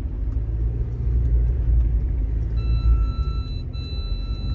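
Low vehicle engine rumble. A little over halfway in, a reversing alarm starts beeping in long tones about a second each, as the towing vehicle backs up to pull the stuck car out of the mud.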